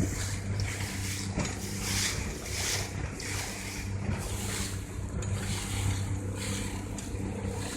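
Motorboat engine running steadily under way, with water rushing and splashing past the hull in repeated surges and wind on the microphone.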